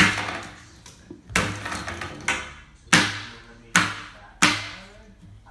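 A series of six sharp bangs, roughly one every second, each ringing briefly before dying away.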